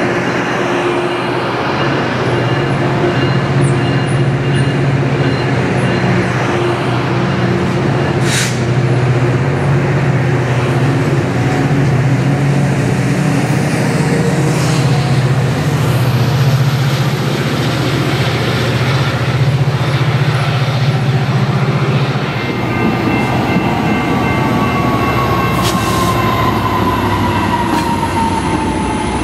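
Metrolink bi-level commuter cars rolling past at close range: a steady rumble of wheels on rail over a low, even engine drone, with a few sharp clicks of wheels over the rail. A faint high tone slowly falls in pitch over the last several seconds.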